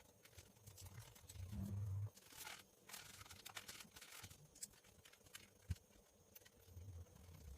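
Near silence: faint background noise with a few soft clicks and two brief low rumbles.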